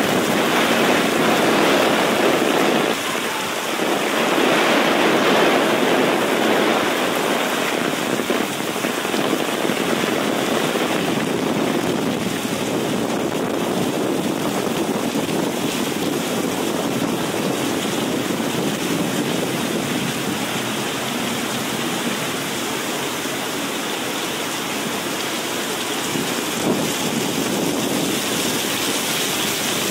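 Heavy rain pouring onto a city street and sidewalk, a steady, dense hiss.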